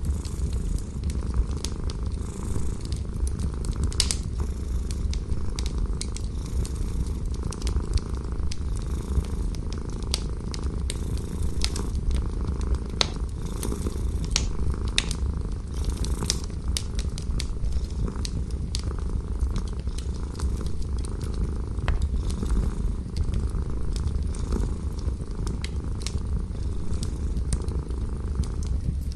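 A cat purring steadily in a low continuous rumble, with the sharp irregular pops and crackles of a fire.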